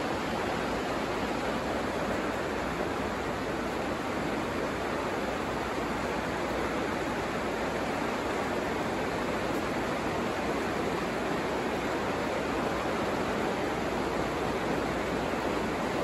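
Steady rain falling on the plastic cover of a hoop house: an even, unbroken hiss.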